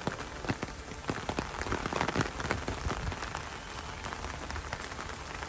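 Steady rain falling, with many sharp drops ticking close to the microphone.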